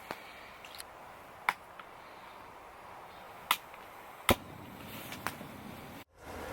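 Four sharp, short cracks or knocks at uneven intervals over a low steady background hiss. The sound cuts out briefly near the end.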